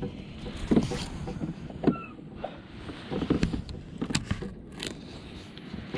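Irregular knocks and clicks of gear against a fishing kayak's hull, over a steady low rumble of wind and water.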